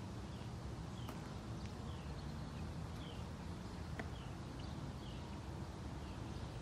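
Rolls-Royce Silver Cloud II's 6.2-litre V8 idling steadily with an even low rumble, a faint high chirp repeating about twice a second above it.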